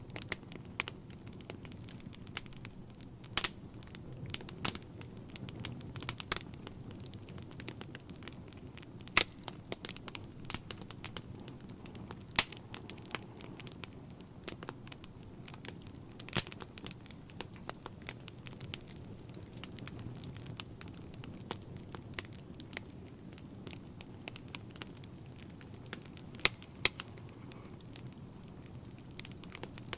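Wood fire burning in a fireplace, crackling and popping in sharp, irregular snaps over a steady low rumble of flame.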